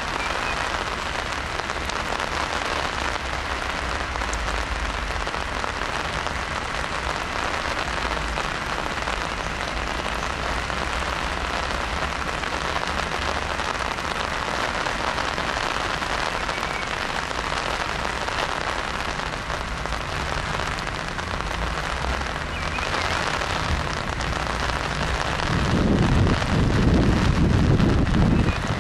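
Steady rain falling, an even dense hiss. Near the end a deeper rumble swells in and the whole sound grows louder.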